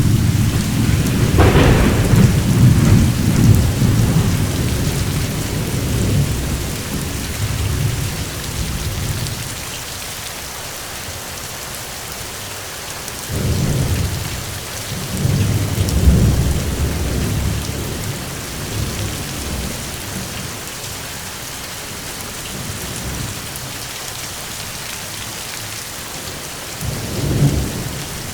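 Steady rain with thunder: a sharp crack about a second and a half in turns into a long low rumble, which dies away after about nine seconds. Further rolls of thunder come at about 13 to 17 seconds and again near the end.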